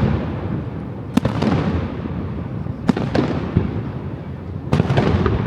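Aerial fireworks shells bursting in a public display: a sharp boom every second and a half to two seconds, each followed by a long rumbling echo.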